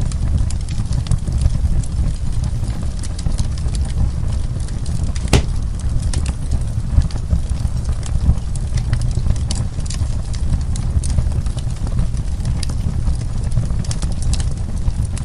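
Wood fire burning in a fireplace: steady low rumble of flames with scattered crackles and pops, one sharper pop about five seconds in.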